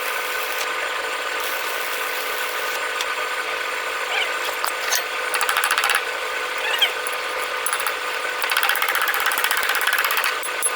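Power tool running with a fast rattle, louder in two stretches about five and nine seconds in, over a steady hum.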